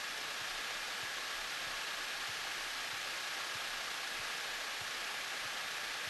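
Steady, even hiss of Cessna 172 cockpit noise during the landing roll, with a faint steady high tone running through it.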